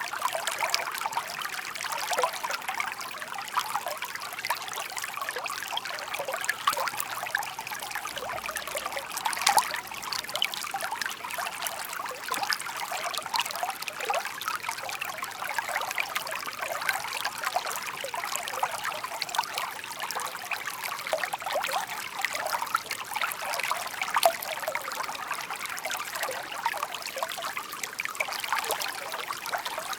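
Shallow brook babbling steadily, water trickling and splashing over stones with a constant bubbling patter.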